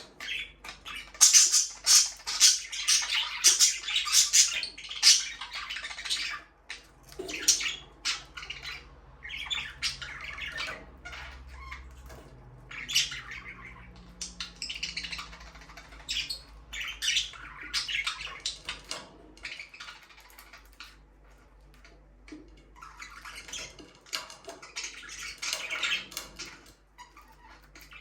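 Budgerigars chattering and squawking in rapid bursts of short, sharp chirps, busiest at the start and again near the end with quieter spells between.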